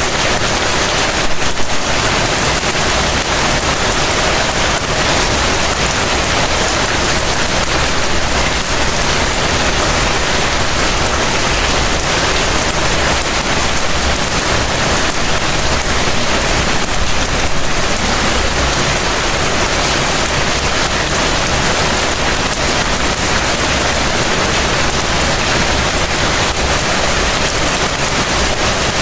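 Heavy rain falling steadily, a dense even hiss of rainfall, with brief slightly louder swells about a second and a half in and again around seventeen seconds.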